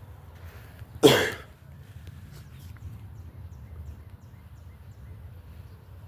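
A single short, loud cough about a second in, over a steady low outdoor rumble.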